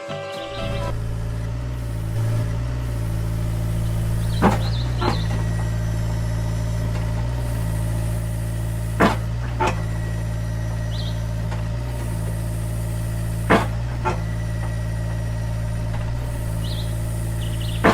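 An engine idling steadily, likely a looped sound effect of a small tractor or truck engine. Pairs of short clicks come at even intervals of about four and a half seconds.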